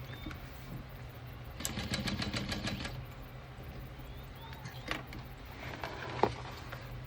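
Juki DU-1181N walking-foot industrial sewing machine stitching a short run of about a second, about two seconds in, its needle bar ticking at roughly eight stitches a second over a steady low motor hum. A couple of single sharp clicks follow, typical of handling the work or the clips.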